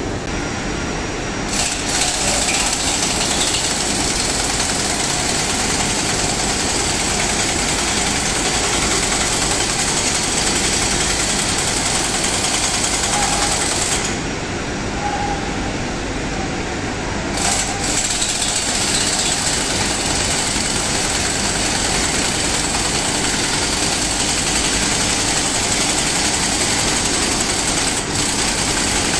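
Power tool for cutting and pulling condenser heat-exchanger tubes, running under load with a steady, dense mechanical rattle. It eases off briefly about 14 seconds in, then picks up again.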